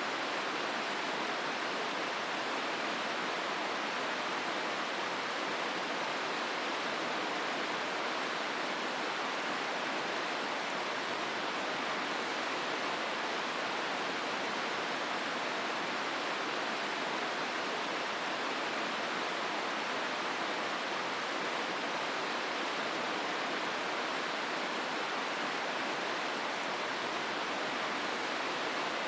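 The Hozu River rushing steadily through the gorge: an unbroken wash of water noise with no separate events.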